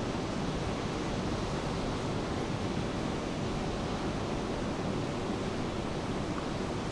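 Steady rain falling, an even, continuous hiss with no breaks or separate drops.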